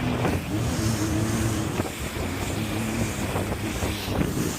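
Jet ski engine running steadily on the water, with wind buffeting the microphone.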